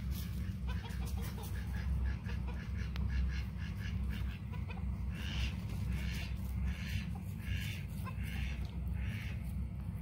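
Birds calling, a run of short repeated calls about one a second in the second half, with fainter calls before, over a steady low rumble.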